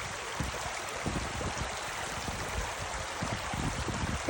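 A creek's water flowing with a steady rush, while wind buffets the microphone in irregular low rumbles.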